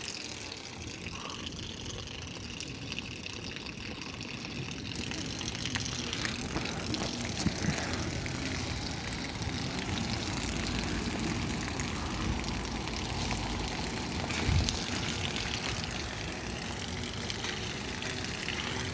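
Outdoor ambience of light rain, a steady hiss, with a low rumble building in the middle and a couple of sharp knocks.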